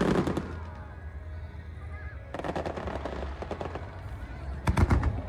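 Aerial fireworks going off in rapid volleys: a loud cluster of bangs at the start, a run of fine crackling in the middle, and another dense, loud burst of bangs near the end.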